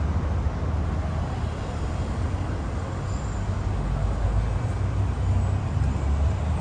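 Steady street traffic noise with a heavy low rumble and no distinct events.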